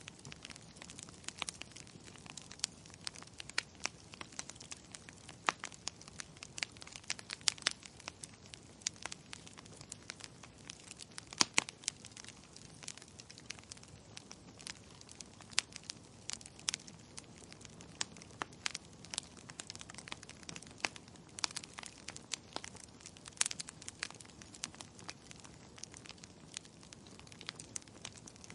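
Burning firewood crackling: irregular sharp pops and snaps, several a second, some louder than others, over a soft steady hiss of the fire.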